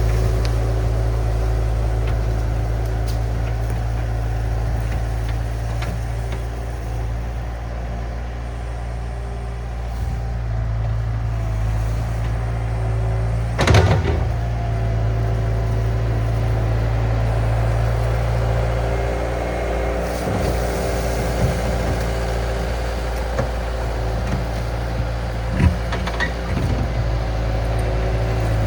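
Diesel engine of a compact earthmoving machine running steadily under work. There is a sharp knock about 14 s in and a few lighter clanks near the end.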